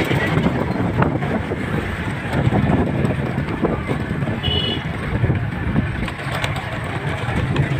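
Steady outdoor street-market noise with traffic running, with wind on the microphone. A brief high chirp about four and a half seconds in.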